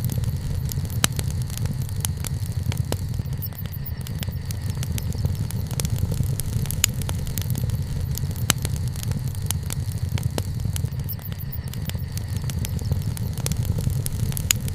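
Wood bonfire burning: a steady low rumble of the flames with frequent sharp, irregular crackles and pops from the burning wood.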